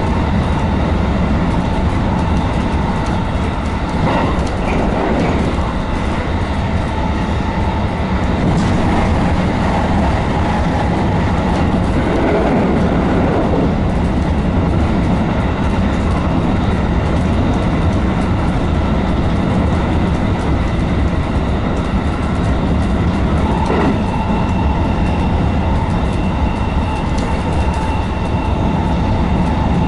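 Running noise of a JR West 221 series electric train at speed, heard inside the front car: a steady rumble of wheels on rail with a faint constant whine, and a few brief clatters over rail joints.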